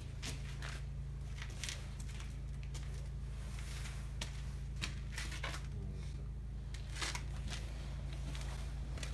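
Scattered light clicks and rustling over a steady low hum.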